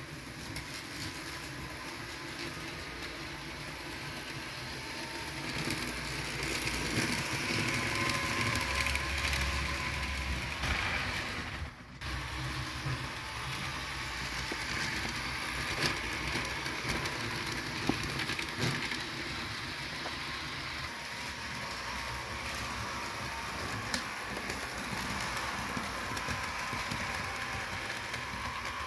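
Model diesel locomotives and a passenger train running along model railroad track: a steady motor whir and wheel rumble, with a few sharp clicks along the way.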